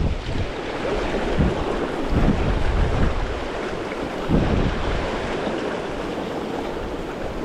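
Steady rushing of a river current, with wind buffeting the microphone in irregular low gusts.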